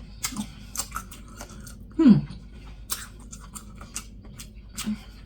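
Close-up wet chewing and lip smacking of someone eating saucy seafood boil, a string of sharp mouth clicks, with a short falling "mmm" hum about two seconds in.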